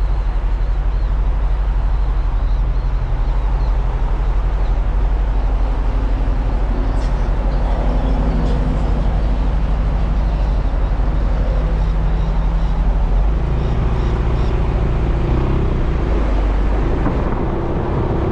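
Suzuki Burgman 400 scooter's single-cylinder engine running steadily, with a change in its engine note about thirteen seconds in.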